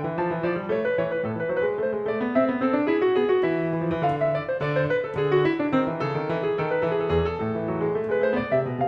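Background piano music, with a melody that climbs and falls over steady chords.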